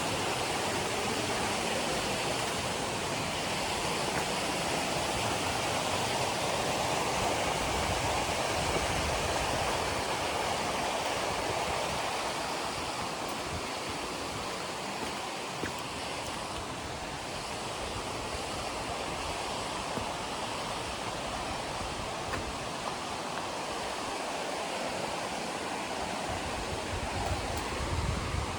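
A river running steadily, an even rushing of water that eases slightly after the first half.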